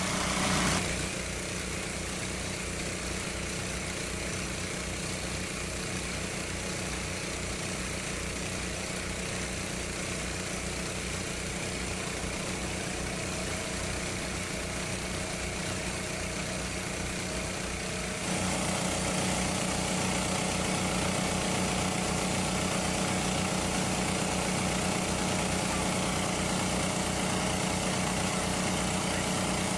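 Small engine running steadily, most likely driving a water pump, with an even firing rhythm. About eighteen seconds in it becomes louder and brighter.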